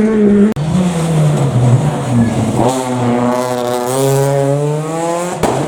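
Rally car engine at high revs, its pitch falling and rising with lifts and gear changes. It breaks off sharply about half a second in, then a fresh run of revs climbs and falls.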